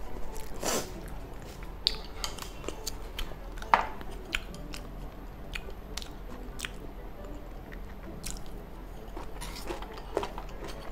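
A person chewing and biting food close to the microphone, with scattered small crunches and clicks. One sharper click comes a little under four seconds in.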